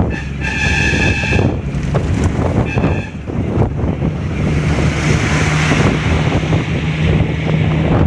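A vehicle running with a loud low rumble and wind buffeting the microphone. A horn sounds for about a second near the start and again briefly about three seconds in.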